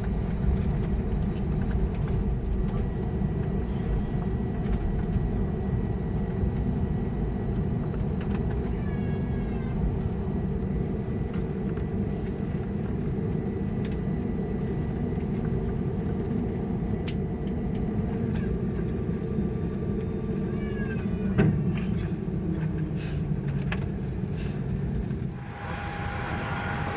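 Cabin noise of an Airbus A321neo taxiing after landing: a steady low rumble from the engines and the rolling gear, with a couple of faint squeaky chirps and a few light clicks. Near the end the rumble drops away suddenly and a higher steady whine takes over.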